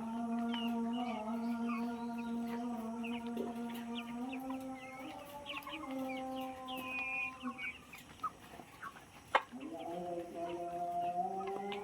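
Caged chickens clucking and squawking over background music with long held, slowly shifting notes. The music drops out for a couple of seconds near the end, with one sharp click in the gap.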